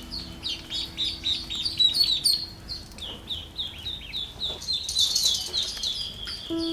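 Ducklings peeping: a rapid run of short, high chirps, each falling in pitch, several a second.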